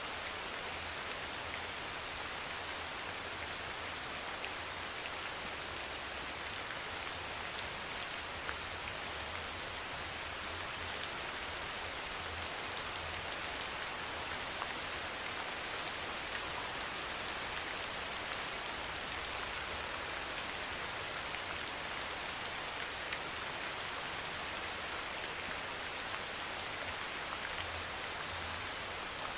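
Steady rain, an even hiss dotted with fine drop ticks. A low rumble swells and fades underneath.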